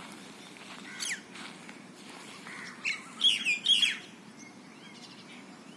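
Birds calling: a few sharp, downward-sliding call notes about a second in, then a louder cluster of them about three to four seconds in.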